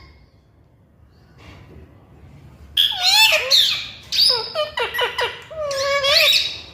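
Indian ringneck parrot vocalizing: about three seconds in it starts a run of shrill, rapid calls whose pitch slides up and down, ending on a held note.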